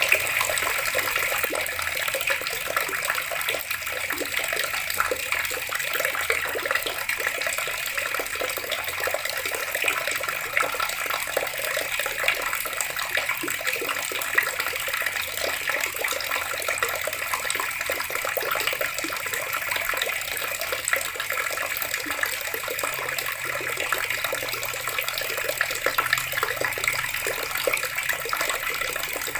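Water running steadily from a tap, a continuous splashing rush.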